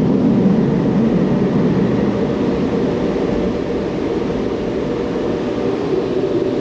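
Automatic touchless car wash equipment running with a steady, loud rushing roar that eases slightly toward the end.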